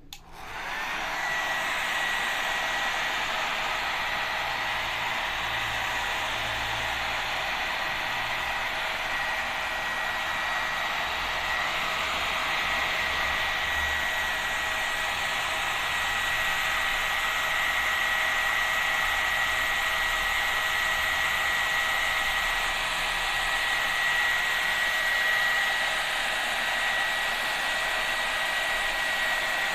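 Hair dryer switched on at its cold-air setting, coming up to speed within about a second. It then blows steadily, a rush of air with a thin high whine.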